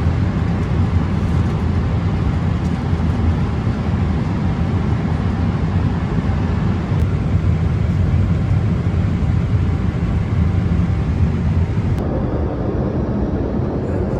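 Steady cabin noise of a Boeing 777-300 in cruise: engine and airflow noise, heaviest in the low range. About twelve seconds in the sound changes abruptly, losing some of its hiss.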